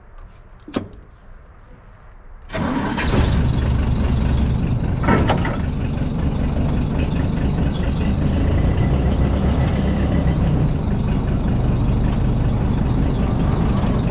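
A click, then about two and a half seconds in a heavy-equipment diesel engine starts abruptly and runs on steadily.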